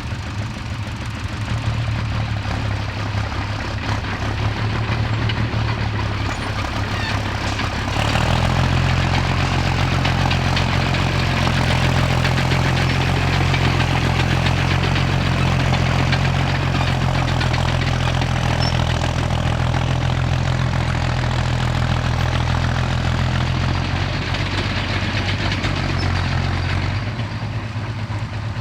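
Large tractor engine running steadily with a deep note. About eight seconds in a louder engine takes over and keeps running, then drops away again near the end.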